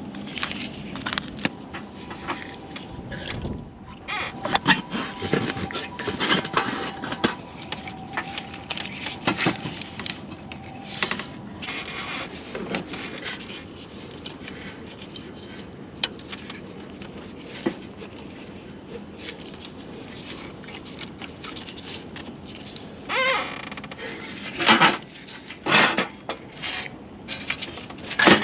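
Irregular clinks, knocks and scrapes of hand tools and metal parts being handled, with a louder cluster of knocks near the end.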